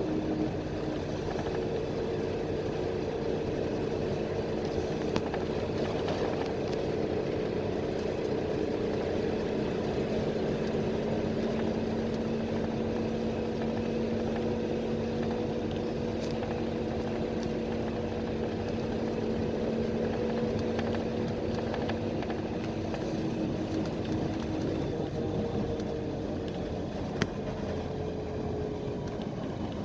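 PAZ-320405-04 Vector Next bus under way, heard from inside the cabin: a steady engine drone over road noise, the engine note dropping slightly near the end, with a single sharp click late on.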